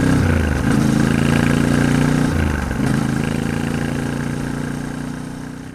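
Yamaha Ténéré 700's parallel-twin engine under way, its note dipping and climbing back twice, then holding steady as the sound fades out.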